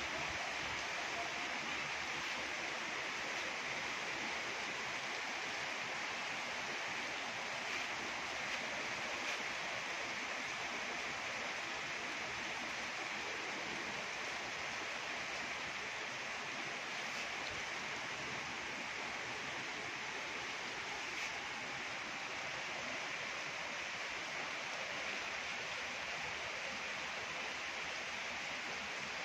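Steady rain falling, an even hiss that holds level throughout, with a few faint ticks here and there.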